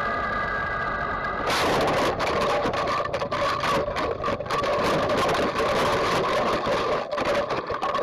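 Yamaha MT-09 three-cylinder motorcycle engine running steadily. About a second and a half in, loud, irregular buffeting noise joins it and lasts to the end, with the engine tone still underneath.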